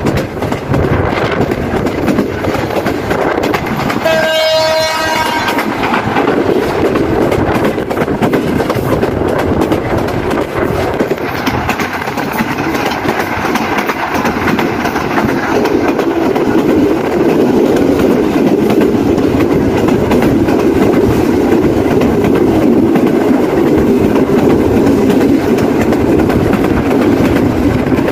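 Passenger train running at speed, heard from an open door: a steady rumble of wheels on rail with clickety-clack and rushing air, and one steady blast of the locomotive horn about four seconds in, lasting over a second. The rumble grows louder in the second half.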